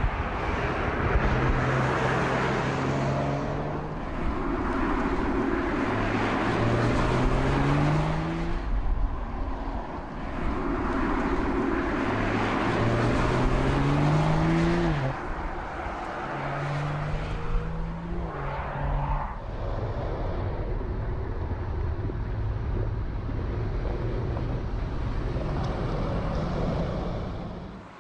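BMW Z4 roadster accelerating through the gears: the engine note climbs, drops at each upshift and climbs again several times, over wind and tyre noise. In the last third it settles into a steady cruise with the engine in the background.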